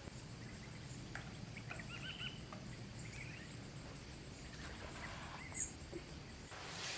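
Faint birds chirping in short, scattered calls over a low, steady background hiss; near the end a brighter high hiss comes in.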